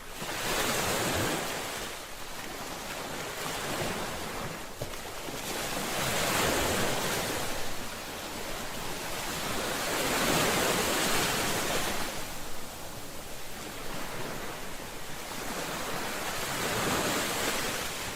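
Ocean waves breaking in a continuous wash of surf, swelling louder four times, a few seconds apart, then easing back between swells.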